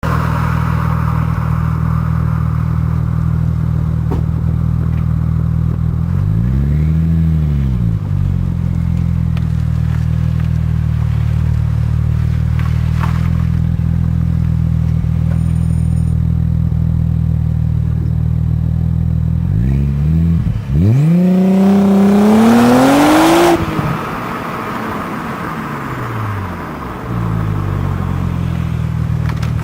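Audi S4 engine through an RS4 exhaust, idling steadily and revved twice: a short blip a few seconds in, then a longer, higher rev that cuts off and settles back to idle.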